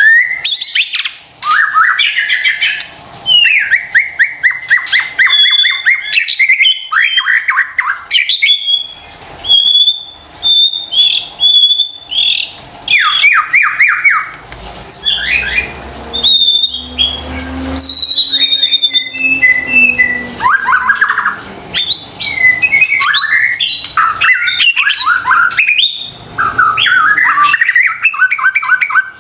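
White-rumped shama (murai batu) singing a long, varied song: fast trills, clear whistles and harsh chattering notes, broken by brief pauses.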